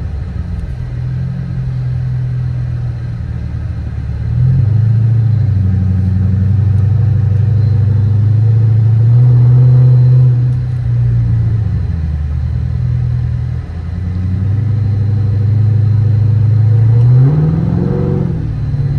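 2013 Dodge Charger R/T's 5.7-litre HEMI V8 heard from inside the cabin while driving. The engine note rises and gets louder under throttle about four seconds in, eases off around ten seconds, and climbs again near the end before dropping back as it shifts.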